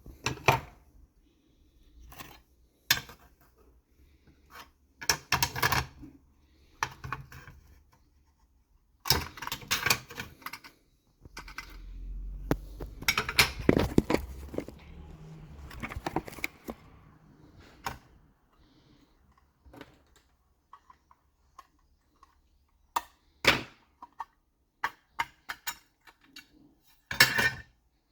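Irregular clicks, taps and short runs of clatter from small hard objects being handled, busiest in the middle, with quiet gaps between.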